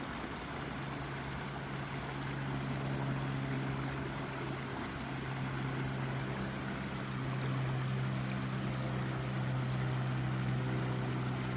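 Brook water babbling and splashing over rock, a steady rushing noise. Under it runs a steady low mechanical hum, like a distant engine or motor, which grows a little louder in the second half.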